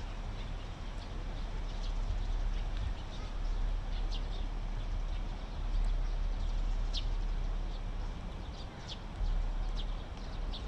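Birds chirping in short, scattered calls, several seconds apart, over a steady low rumble.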